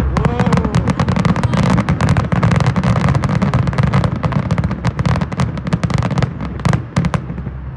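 Aerial fireworks going off in a rapid barrage: many sharp bangs and crackles in quick succession over a deep rumble. The barrage thins out near the end.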